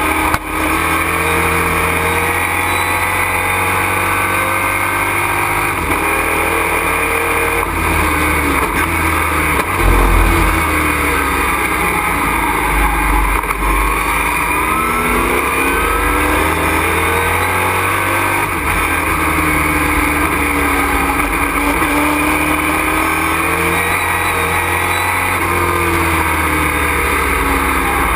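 Race truck's engine heard from inside the cockpit, running hard at racing pace, its revs rising and falling again and again, over steady road and wind noise.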